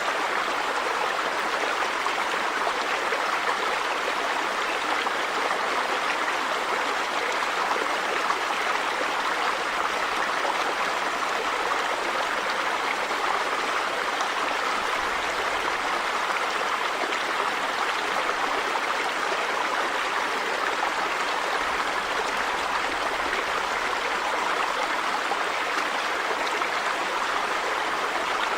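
River water flowing over stones, a steady even rush with no breaks.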